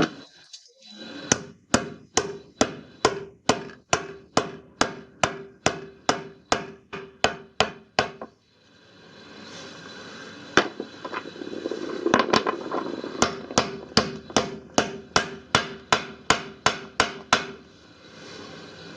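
Hammer striking a drift to drive a new drum bearing into its greased seat in a washing machine tub: evenly spaced metallic taps about three a second, with a steady ringing tone carrying through. The tapping pauses about eight seconds in for a few seconds, then resumes.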